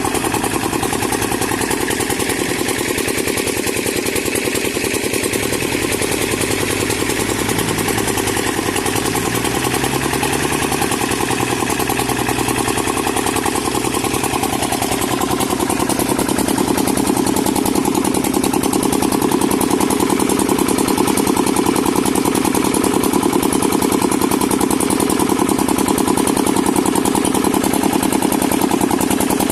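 Kubota MU4501 tractor's four-cylinder diesel engine running continuously while driving a rotavator. Its note wavers about a third of the way in, then settles a little louder past the halfway mark.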